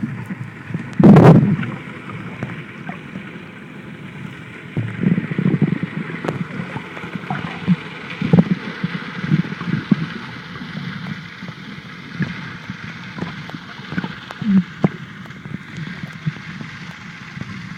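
Muffled underwater water noise picked up by a phone sealed in a plastic underwater pouch: gurgling and sloshing with irregular knocks, and one loud rush of water about a second in.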